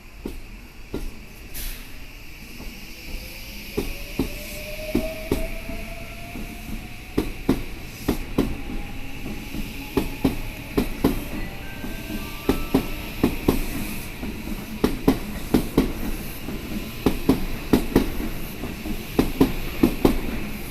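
Electric train pulling away and picking up speed: a rising motor whine in the first half, and wheel clacks over rail joints that come faster and louder.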